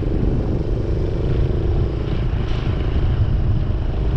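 Minibike engine running steadily as the bike is ridden, with wind buffeting the microphone.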